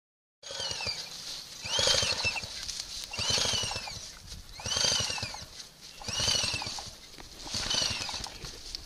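A flooded 2002 KTM 250 EXC two-stroke being turned over stroke after stroke, about once every second and a half, five or six times. Each stroke brings a rush of noise with a squealing tone that rises and falls, as the engine is worked to clear water from the cylinder.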